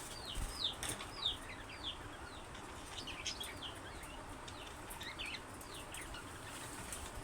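Budgerigar chirping: quick runs of short, high chirps with a few soft clicks between them.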